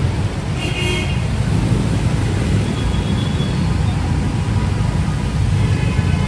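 Steady street traffic: a continuous low engine rumble from vehicles on the road, with a brief high-pitched tone, like a horn toot, just under a second in.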